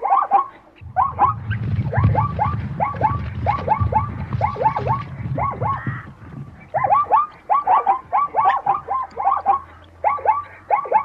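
Animal calls: a rapid series of short, squeaky calls, each dropping in pitch, several a second, pausing briefly about six seconds in. A low rumble runs underneath through the first half.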